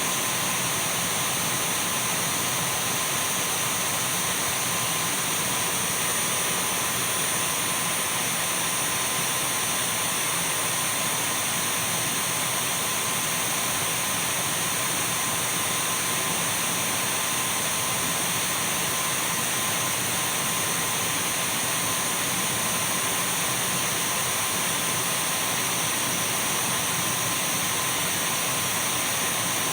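Dyson V12 cordless stick vacuum cleaner running continuously at a constant speed: an even rushing hiss of air with a thin high-pitched whine and a fainter steady mid tone, unchanging throughout.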